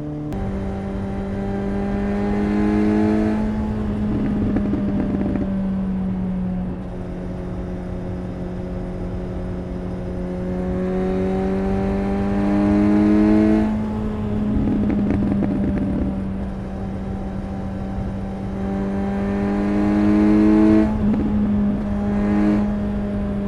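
Suzuki GSX-S 750's inline-four engine and exhaust on the road. Three times the engine note climbs steadily and then drops abruptly, with a brief rough, crackling patch after each drop; between the climbs it holds a steady cruising note.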